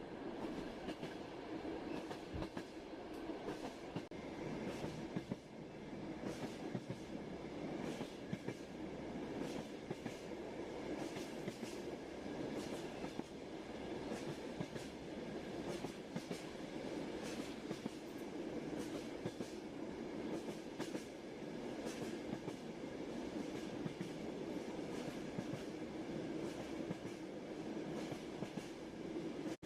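A moving train heard from inside the carriage: a steady rumble of wheels on track, with irregular clicks and clacks of the wheels over rail joints throughout.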